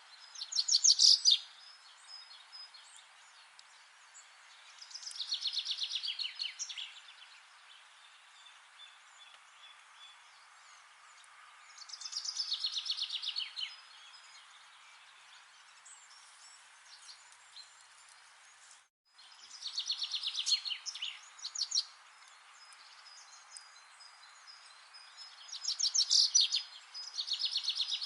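A songbird repeating a fast, high trilled song phrase about five times, each one to two seconds long, over a faint steady background hiss. The sound cuts out completely for a split second about two thirds of the way through.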